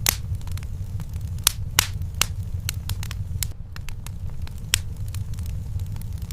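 Wood fire crackling in a fireplace: sharp, irregular pops every second or so over a steady low rumble.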